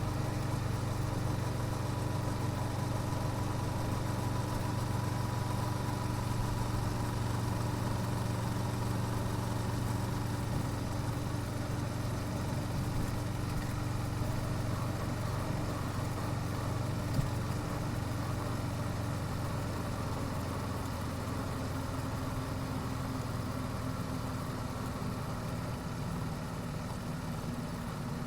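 Yamaha YZF-R7's 689 cc parallel-twin running steadily through its stock exhaust at an even low pace, with no revving. A single brief tick comes about 17 seconds in.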